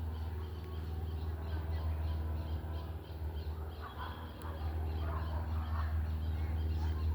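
Cessna 150's four-cylinder Continental O-200 piston engine and propeller running steadily with a low hum, growing slowly louder.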